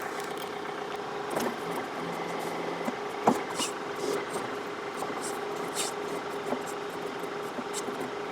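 John Deere 4052R compact tractor's diesel engine running steadily with a constant hum, with scattered clicks and knocks, the loudest about three seconds in.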